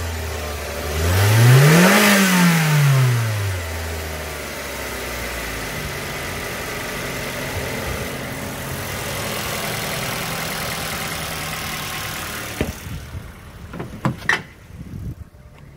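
2013 Mazda 3's four-cylinder petrol engine, hood open, revved once with a rise and fall in pitch over about three seconds, then idling steadily. Near the end it becomes quieter and a few knocks and clicks are heard.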